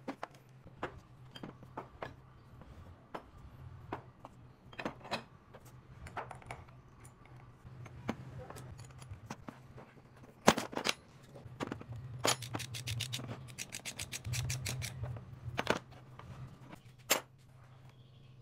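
Clinks, scrapes and knocks of metal parts and tools being handled during engine work, with two runs of rapid, evenly spaced clicking in the second half. A steady low hum runs underneath.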